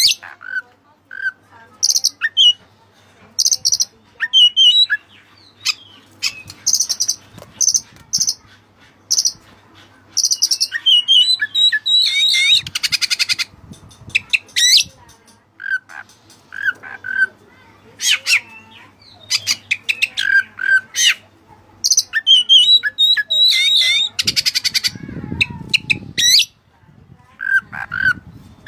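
Oriental magpie-robin (white-breasted kacer) singing a loud, varied song of short whistled notes and sharp high phrases, with a fast buzzing trill in the middle and again near the end. The song is filled with learned cililin calls.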